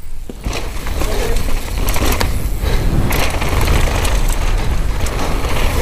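Downhill mountain bike riding over a rough trail: steady tyre noise on dirt, broken by repeated knocks and rattles from the bike, with wind buffeting the helmet-mounted camera microphone.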